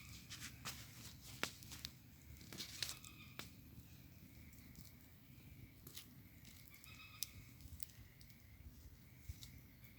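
Bonfire crackling, with scattered sharp pops over a low rumble. The loudest pops come about one and a half and three seconds in.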